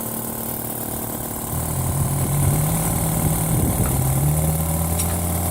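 Electric motor of the tire changing equipment running as a low, steady hum. It kicks in about a second and a half in and cuts off abruptly near the end, over a constant background machine hum.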